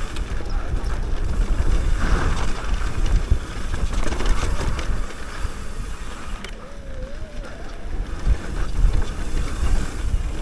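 Wind buffeting the microphone and tyres rumbling over a dirt trail as a mountain bike descends, with occasional knocks over bumps.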